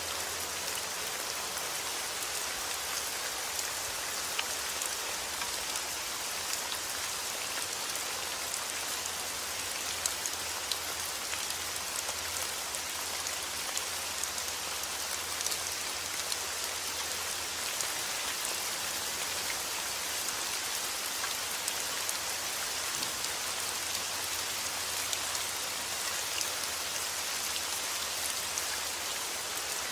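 Heavy rain falling steadily outdoors, an even hiss of rain on surfaces with scattered individual drops ticking through it.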